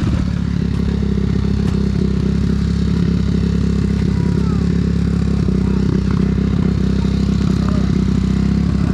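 Dirt bike engine running steadily at an even pitch.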